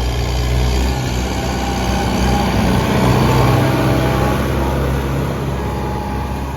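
Kubota M108S tractor's diesel engine running steadily, its note swelling slightly about halfway through.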